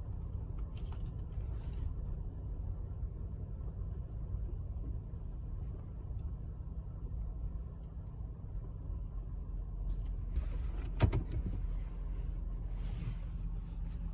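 Car engine idling with a steady low rumble, heard from inside the cabin. A sharp click about eleven seconds in.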